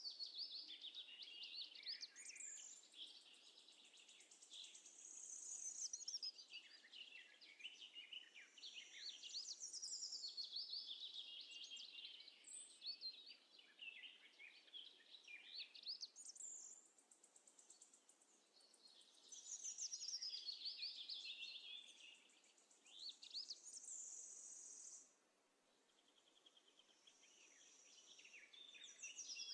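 Faint birdsong: many quick, high chirps and trills, dropping out briefly about 25 seconds in.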